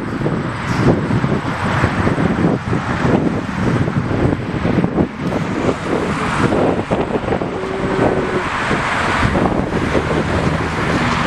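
Wind buffeting the microphone over a steady rumble of passing road traffic.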